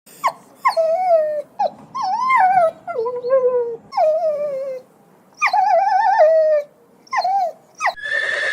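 A dog whining and yipping in a series of high, drooping calls, some of them wavering. A horse begins to neigh just before the end.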